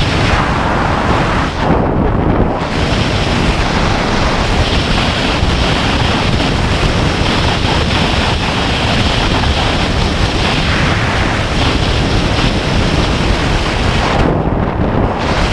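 Loud, steady rush of air buffeting a skydiver's camera microphone. The high hiss briefly drops away twice, once about two seconds in and once near the end.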